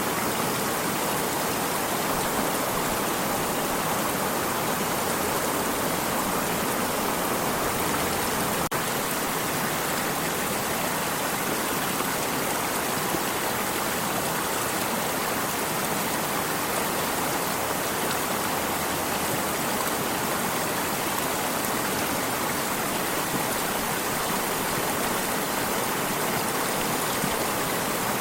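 A stream of running water, a steady, even rush and splash with no change over time.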